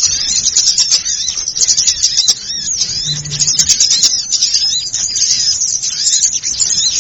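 Recorded chorus of many small songbirds chirping and twittering rapidly and without pause, a dense high-pitched racket played as a bird lure. A brief low hum sounds about three seconds in.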